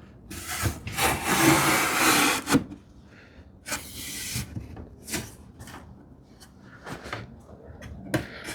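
Hand plane taking shavings off the edge of a Baltic birch plywood panel, trimming it to fit its groove: a short stroke, then a long, loud stroke about a second in, another near the middle, and several shorter, lighter strokes after.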